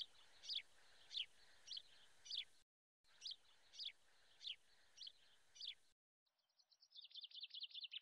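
A bird calling: a short, high, falling note repeated about every half second, ten or so times. From about six seconds in comes a fast, chattering trill.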